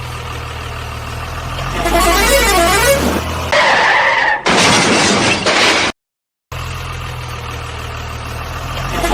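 A looping electronic vehicle sound effect: a low engine hum, then a warbling siren-like tune, a horn note and a hiss. It cuts to dead silence for half a second and starts over.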